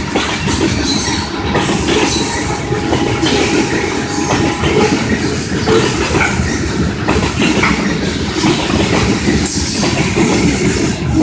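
Freight train cars rolling past, covered hoppers and tank cars, with a steady rumble and the wheels clattering over the rail joints.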